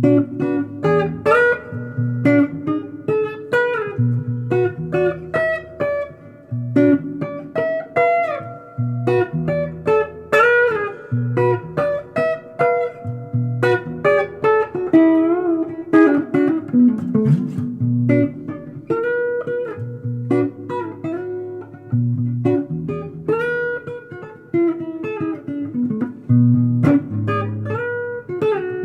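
Blues guitar improvisation: single-note lead lines with string bends over a low figure that repeats about every two seconds.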